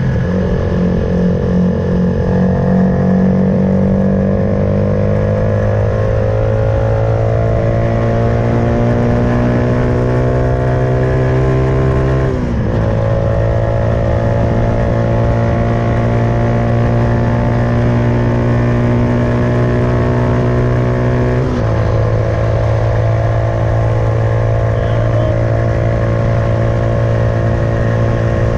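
Suzuki Van Van 125's single-cylinder four-stroke engine, through an aftermarket full exhaust, pulling under way with its pitch rising slowly. There are two gear changes, about twelve and twenty-one seconds in, where the pitch drops suddenly before climbing again and then holding steady.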